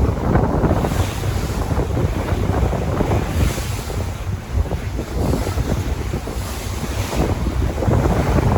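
Sea waves washing, surging in a hiss every couple of seconds, with wind buffeting the microphone in a low rumble.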